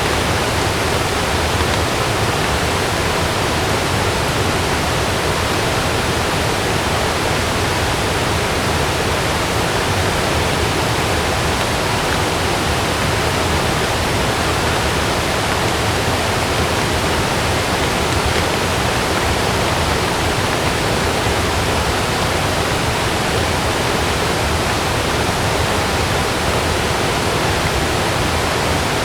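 Heavy rain falling steadily on a tent: a loud, even hiss with no thunderclap or gust standing out.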